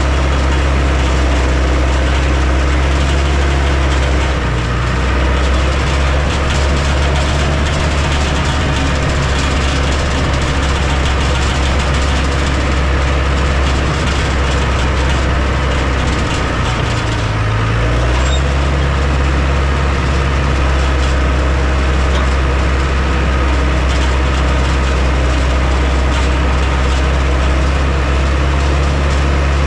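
Heavy earthmoving machine's diesel engine running steadily, its note shifting briefly as the load changes about four seconds in and again around seventeen seconds in.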